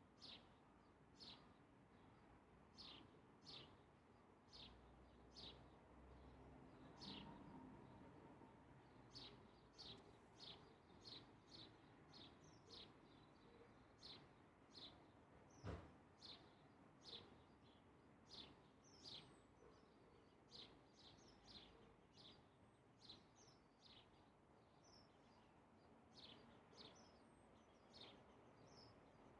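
A small bird chirping faintly and repeatedly: short, high, falling chirps about once a second, some in quick pairs. One sharp click about halfway through.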